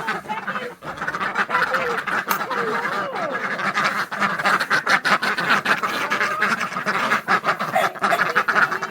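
A flock of domestic ducks quacking over one another in a dense, continuous chorus.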